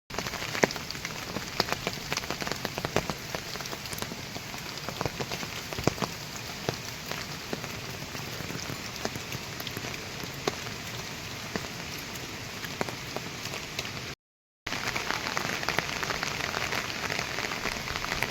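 Steady rain falling, with many individual drops ticking sharply against a surface. About fourteen seconds in the sound drops out for half a second, then the rain comes back slightly louder.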